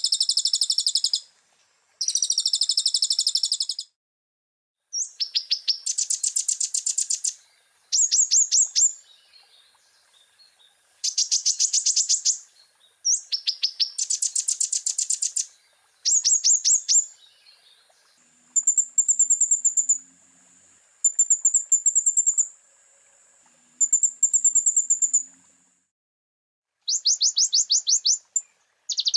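Kolibri ninja (konin) sunbird singing: high-pitched phrases of very fast trilled notes, each one to two seconds long, repeated with short pauses. From about 18 to 26 seconds in, the phrases turn thinner and steadier at one higher pitch.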